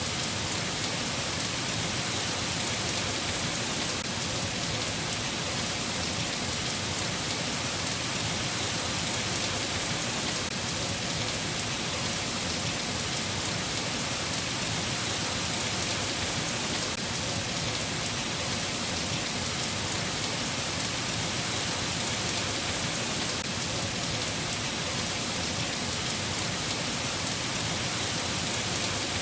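Steady rain falling: an even, unchanging hiss with faint ticks of individual drops.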